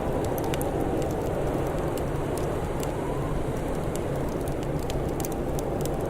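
Wood fire crackling: scattered sharp pops and snaps at irregular moments over a steady, low rushing background.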